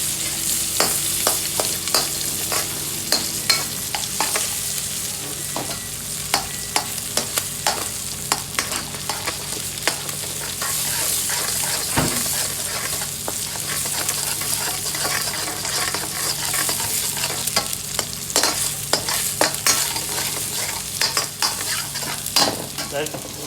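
Food frying and sizzling in a hot pan, with a metal utensil stirring and repeatedly clicking and scraping against the pan. A faint steady hum runs underneath.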